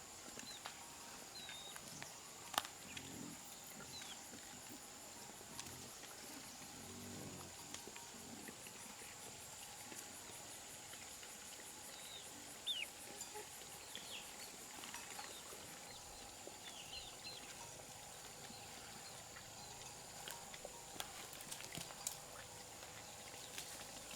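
Faint outdoor farm ambience: a steady high-pitched drone with scattered short chirps, a few sharp clicks, and some low animal sounds.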